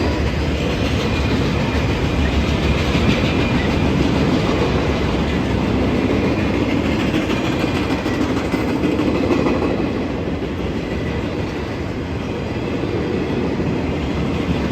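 A train's cars rolling past on the rails, a steady loud noise of wheels on track with fine rapid clicking, easing slightly about two-thirds of the way through.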